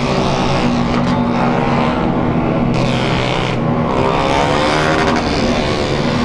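Many motorcycle engines running together as a group rides along. Partway through, one engine revs up and back down.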